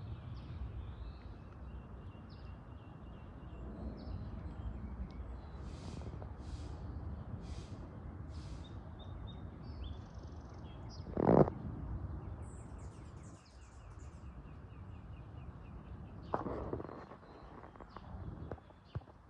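Small birds chirping and trilling over a steady low rumble, with one short loud knock about eleven seconds in and a softer one about five seconds later.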